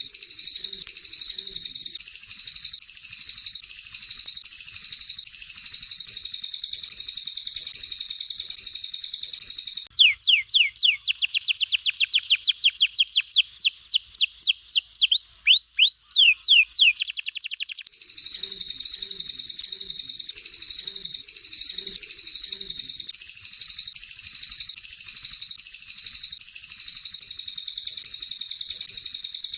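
Songbird master-training recording of canary and cililin song: a dense, very high trill, broken about ten seconds in by an eight-second run of quick downward-sweeping whistled notes that speed up, then the high trill again.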